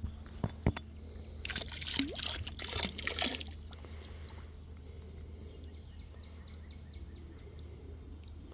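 Water pouring and splashing out of an old glass bottle tipped upside down, for about two seconds, after a couple of light knocks. Then only a faint steady background.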